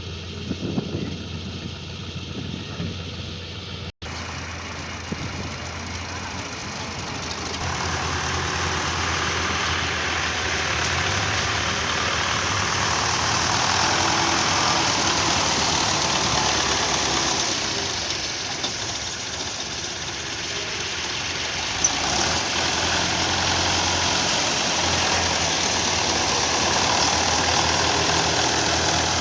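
Heavy earthmoving machinery's diesel engine running steadily, with a broad rushing noise that builds after several seconds and stays loud. The sound drops out for an instant about four seconds in.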